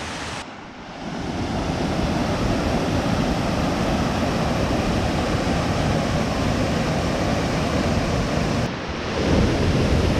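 Waterfall pouring: a very loud, steady rush of falling water. It swells about a second in and dips briefly near the end before coming back louder.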